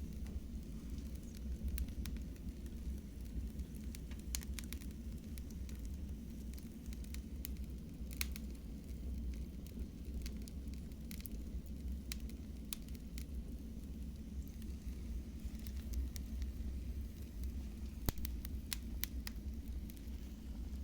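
Wood fire burning in a fireplace: irregular crackles and pops over a steady low rumble of the flames, with one sharper pop near the end.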